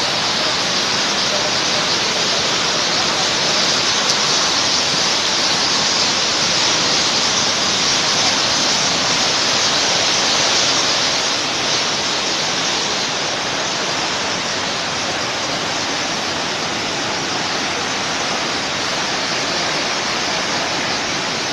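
Heavy rain falling in a steady, loud hiss without a break.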